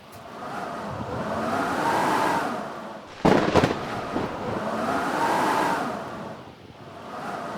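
Blizzard wind howling in gusts that rise and fade about every three and a half seconds. A short burst of sharp cracks or knocks a little past three seconds in is the loudest moment.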